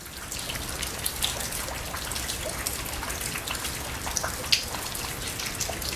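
Steady rain falling, an even hiss with scattered individual drops pattering on surfaces.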